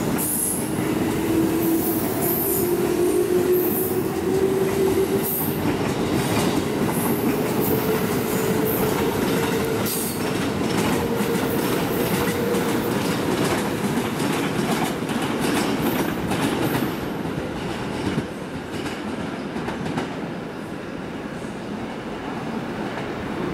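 JR West 221 series electric train pulling out and accelerating: its motor whine rises steadily in pitch for about twelve seconds while the wheels clatter over the rail joints. The sound eases off after about seventeen seconds.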